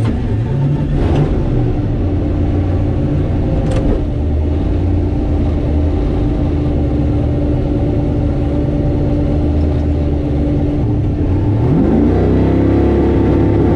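Drag car engine idling steadily, then revving up about twelve seconds in.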